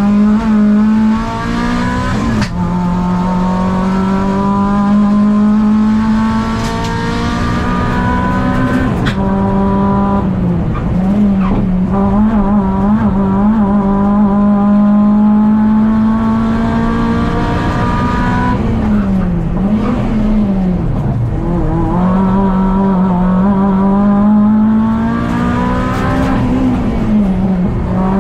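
Škoda Fabia 1.4 16v four-cylinder race engine heard from inside the cabin, running hard at high revs up a hillclimb. Its pitch dips briefly and recovers three times, about ten, twenty and twenty-six seconds in.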